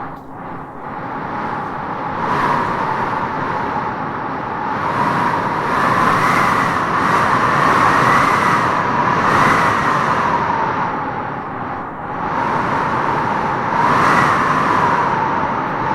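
Wind howling in gusts, swelling and easing several times, with the loudest gusts in the middle and again near the end.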